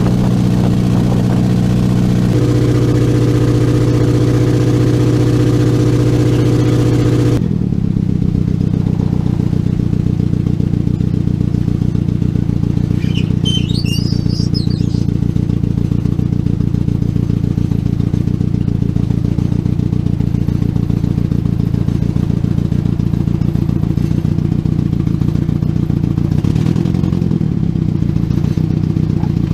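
Boat engine running loudly and steadily during a river crossing. Its note shifts about two seconds in, and the sound changes abruptly about seven seconds in.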